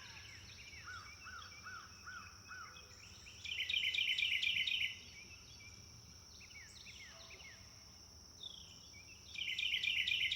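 Background nature ambience of small songbirds chirping: a short run of five repeated notes at the start, then two spells of fast, bright trilling chirps, over a steady high hiss.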